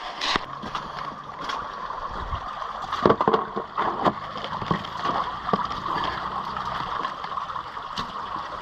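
Fast water running down a rocky gully creek, with scattered knocks and clicks over it, the loudest a cluster about three seconds in.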